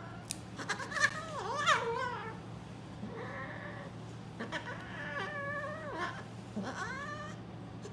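Angry grey cat yowling in about four wavering, pitch-bending cries, distressed at being held down for a haircut.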